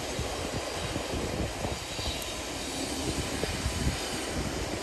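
Freight train rolling past close by, a steady rumble of wagon wheels on the rails.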